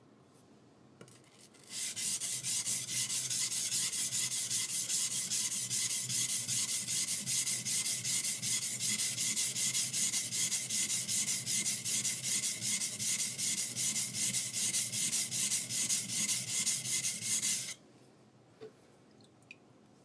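High-speed steel skiving knife being rubbed back and forth on a coarse whetstone to flatten the blade. The grinding strokes come quickly and evenly, about three a second, starting about two seconds in and stopping shortly before the end.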